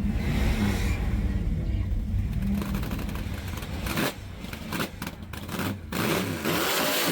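A car engine running with a low rumble, then revved up and down several times in the last few seconds, with a few sharp cracks in between.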